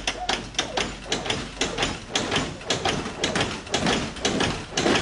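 A rapid, irregular series of sharp clicks or knocks, several a second.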